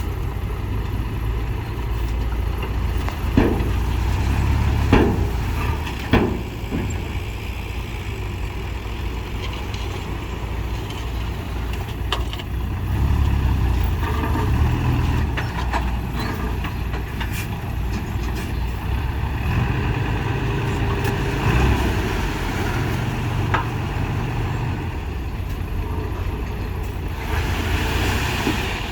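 Diesel engine of heavy earthmoving machinery running steadily under load, with three sharp metallic knocks spread over the first several seconds.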